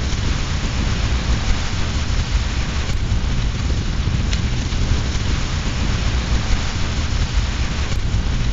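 Steady rain falling as an even hiss, with a fireplace fire giving an occasional sharp crackle, three times or so.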